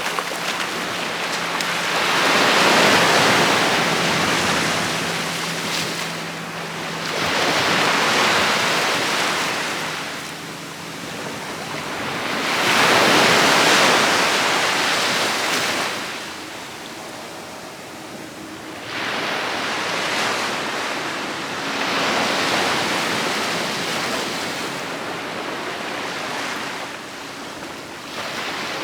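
Ocean surf on a beach: waves breaking and washing up the sand, each surge swelling and fading every five seconds or so.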